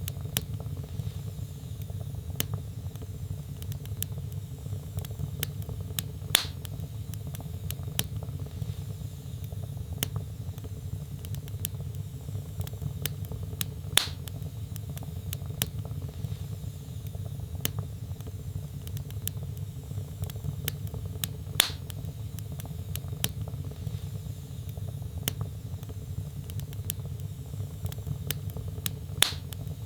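Wood fire in a fireplace crackling over a steady low rumble of flames, with many small clicks and a louder sharp pop about every seven to eight seconds.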